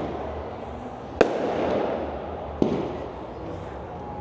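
Fireworks going off: two sharp bangs about a second and a half apart, each trailing into a rolling echo, over a continuous rumble of more distant bursts.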